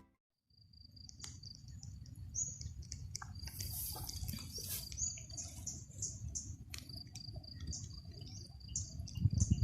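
Insects and birds chirping in short, repeated high calls over a steady low rumble.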